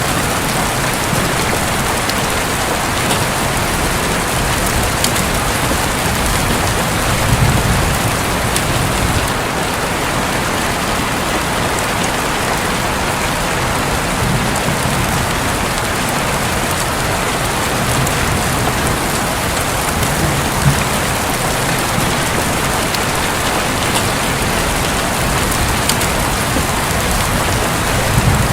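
Heavy rain falling steadily on a roof, with a few low rumbles of thunder swelling and fading through it.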